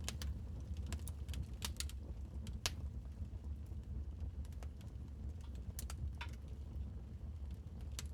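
Wood fire crackling in a fireplace: scattered sharp pops and snaps at irregular intervals, with a few in quick succession near the start, over a steady low rumble.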